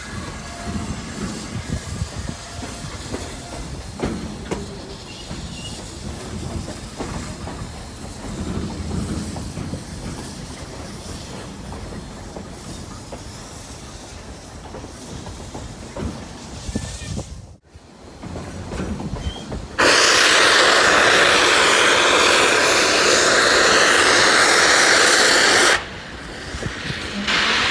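Narrow-gauge steam train running, with uneven clatter of wheels and cars. After a cut, a loud, steady blast of steam hiss from the locomotive lasts about six seconds and stops abruptly.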